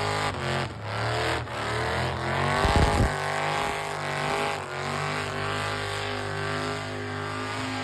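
A car engine running hard and revving, its pitch rising and falling, with brief drops in throttle early on and a loud low blast about three seconds in.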